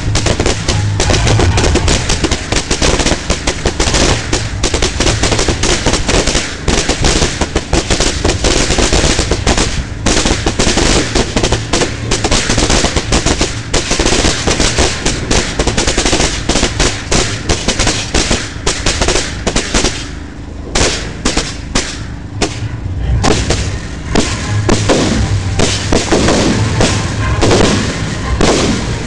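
Fireworks going off at very close range: a dense, rapid run of cracks and bangs from launching comets and crackling effects, easing briefly about twenty seconds in before building again.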